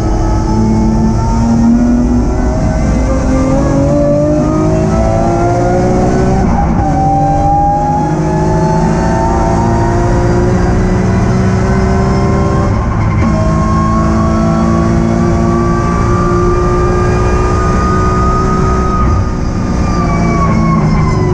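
BMW E46 M3's straight-six engine heard from inside the cabin, accelerating through the gears. Its pitch climbs, drops sharply at an upshift twice, about a third and about two thirds of the way through, then climbs slowly and falls as the throttle comes off near the end.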